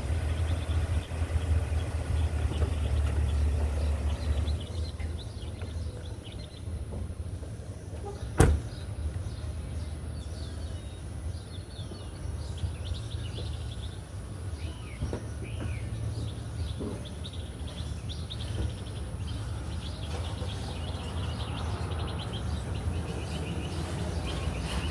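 Birds chirping over a steady low rumble. The rumble is heavier for the first few seconds and then eases, and there is one sharp click about eight seconds in.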